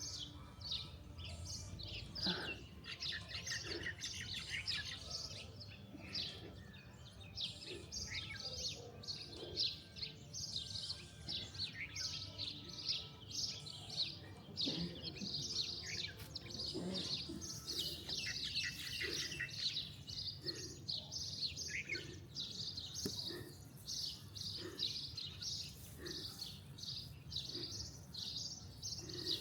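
Wild birds chirping and singing together: a dense chorus of many short, high calls overlapping throughout.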